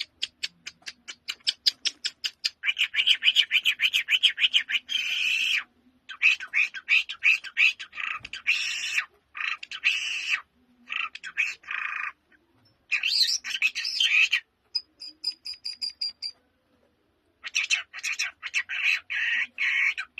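A lark singing a long, varied song of rapid repeated notes and trills, with short breaks and one longer pause midway.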